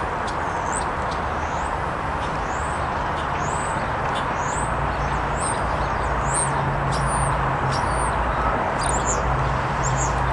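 Small birds chirping repeatedly, short high rising-and-falling notes, over a steady rushing outdoor background noise. A low steady hum joins about halfway through.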